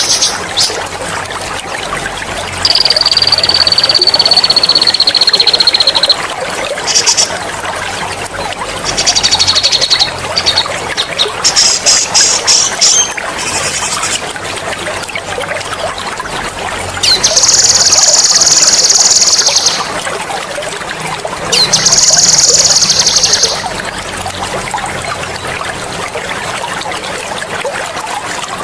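A songbird singing loud, sharp, high-pitched rolling trills in bursts of one to three seconds, several times, over the steady hiss of trickling water.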